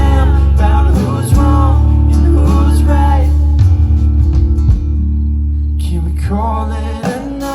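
Live band music: a singer's voice over guitar, the sung phrases coming in short lines with gaps between them.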